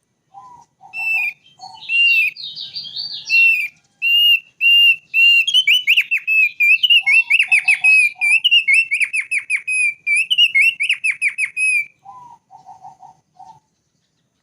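Thick-billed white-eye singing: a long run of clear, repeated whistled notes that quicken into rapid trilled phrases partway through. Short clusters of lower notes come in three times, at the start, in the middle and near the end.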